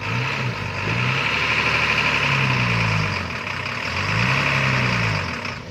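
Hino F18 ten-wheel truck's diesel engine working hard under a heavy load, its revs rising and falling several times with a strong hiss over the top. It cuts off near the end as the engine stalls.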